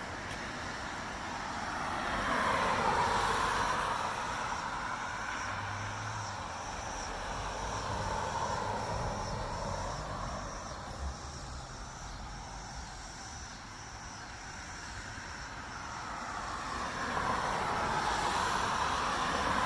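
Traffic noise from passing cars, a steady hiss of tyres on the road that swells and fades as a car goes by about three seconds in, and again near the end.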